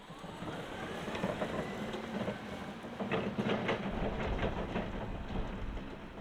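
Toyota 8FBMKT20 electric forklift running. An electric motor whine rises in pitch over the first second or so and then holds, followed by rattling and several clunks, with a low rumble coming in about four seconds in.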